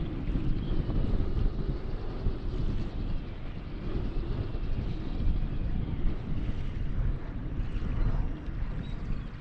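Wind buffeting the microphone in uneven gusts, with water noise around a kayak.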